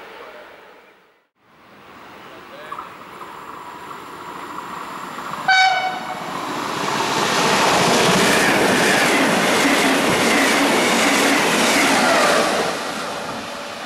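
A train gives a short horn blast, then passes at speed with a loud rush of wheel and rail noise that dies away near the end.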